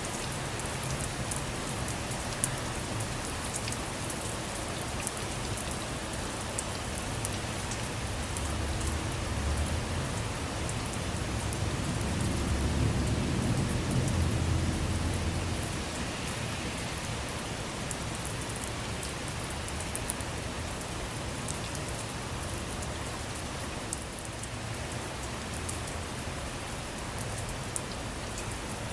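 Steady rain falling, with scattered sharp drop ticks. About halfway through, a low rumble of distant thunder swells and fades.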